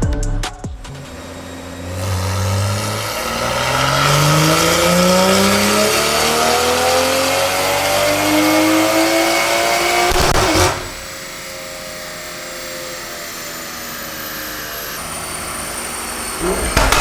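Toyota Supra's turbocharged 3.0-litre B58 inline-six, with decat downpipes and a titanium catback exhaust, making a full-throttle dyno pull. The engine note climbs steadily in pitch for about eight seconds, then cuts off abruptly as the throttle closes, leaving a lower, quieter steady sound. A short loud burst comes near the end.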